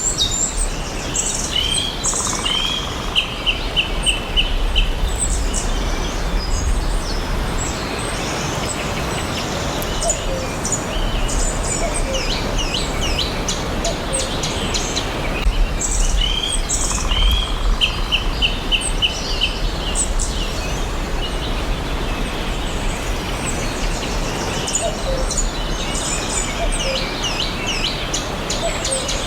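Several forest birds chirping and calling, with many short, quick notes over a steady background hiss. A run of rapid repeated notes comes twice, about two seconds in and again about sixteen seconds in.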